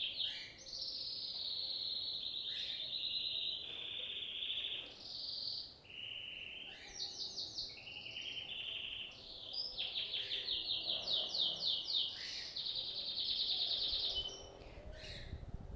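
A songbird singing a long, varied song of high chirps and rapid trills, broken by a few short pauses.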